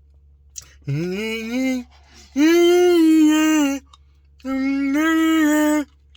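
A person's voice singing wordless long held notes, three in a row, each about a second long with a slight waver in pitch, and a fourth starting at the very end.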